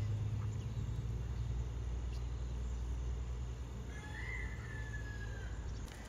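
A steady low hum, with one long bird call about four seconds in that is held for over a second and falls at its end.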